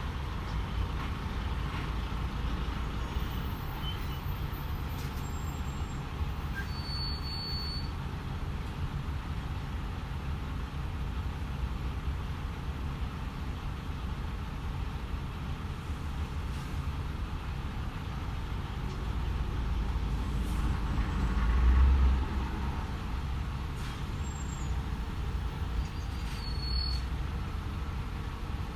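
DAF XF 510 truck's six-cylinder diesel engine and road noise while driving: a steady low drone. About twenty seconds in it swells to a louder rumble, peaking briefly a couple of seconds later.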